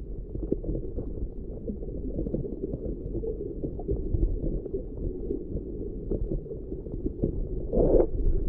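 Muffled, low rumbling water noise heard through an underwater camera, with scattered small clicks and a brief louder surge near the end.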